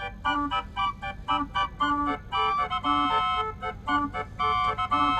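Calliope-type mechanical organ playing a lively tune: bright, piping melody notes over a bass note that repeats about every half second.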